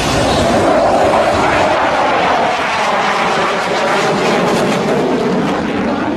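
JF-17 Thunder fighter's single Klimov RD-93 turbofan running loud as the jet flies past, its tone falling slowly in pitch.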